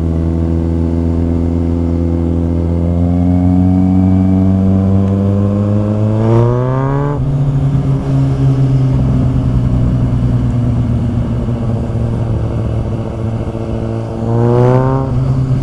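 Kawasaki Z800 inline-four, running loud through an exhaust with its dB killer removed. It pulls up through the revs for several seconds and drops sharply at a gear change about seven seconds in, then runs steady, with another short rise in revs near the end.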